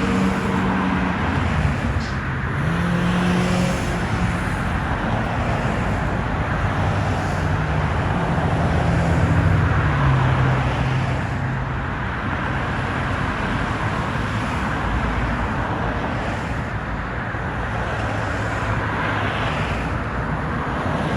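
Steady engine and traffic noise, with low engine tones that shift in pitch every few seconds.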